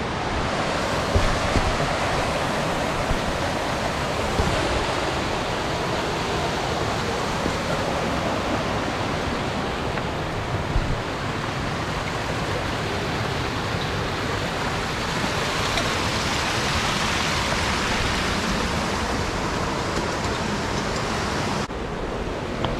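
Steady rush of water from a tall mountain waterfall with a thin flow, an even hiss with no breaks, changing abruptly near the end.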